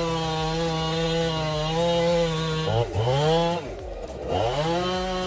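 Chainsaw engine running at high, steady revs. About halfway through, the pitch drops off sharply and climbs back up, twice in quick succession.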